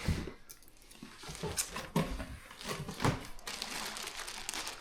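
Packaging rustling and crinkling in irregular bursts, with a few short knocks, as a parcel is unpacked by hand.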